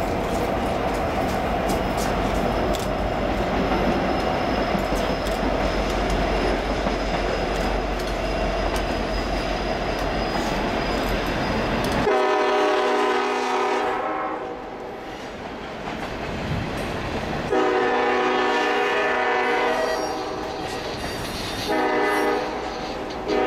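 Norfolk Southern freight train led by an SD70M-2 diesel locomotive rumbling past, a steady wash of engine and wheel noise. About halfway through it cuts off abruptly and a locomotive air horn sounds a chord in three long blasts, with a fourth starting at the end, as a double-stack intermodal train rolls by.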